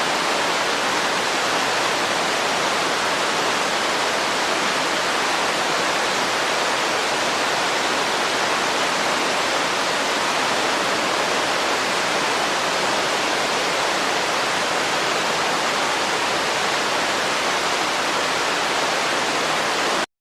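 Steady rush of running water, a stream or small waterfall, with an even hiss and no distinct splashes. It cuts off abruptly at the very end.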